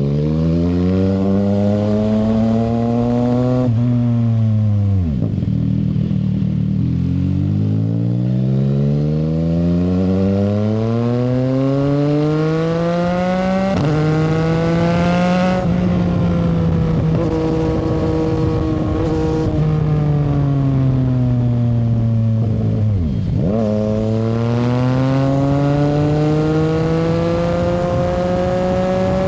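CFMoto 675SR-R's inline-three engine through an aftermarket shorty exhaust, revving up through the gears with a sudden drop in pitch at each upshift. It winds down as the bike slows in between, then pulls hard again near the end.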